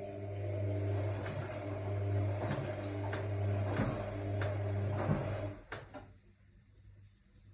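AEG Lavamat L62850L washing machine running with a steady hum and a soft knock every half second to a second. It stops about six seconds in.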